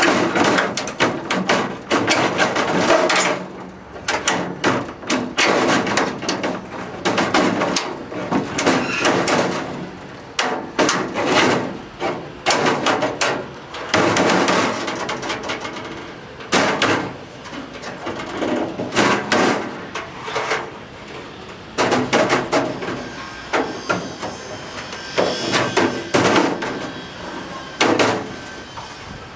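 Sheet-metal cladding work on a chimney: irregular runs of hammer blows and knocks on sheet metal, several a second in clusters with short pauses between.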